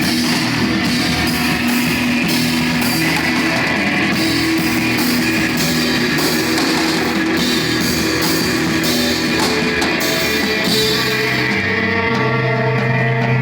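Noise rock band playing live: distorted electric guitar over drums with steady cymbal hits. About three quarters of the way through the cymbals drop out, leaving held low guitar notes.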